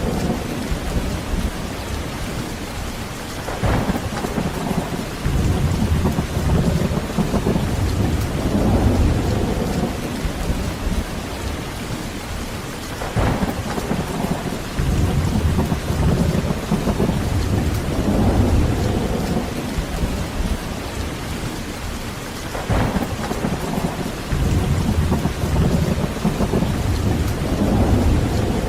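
Heavy rain falling steadily with rolling thunder. Low rumbles swell and fade every few seconds, and a sharper crack comes about every nine or ten seconds.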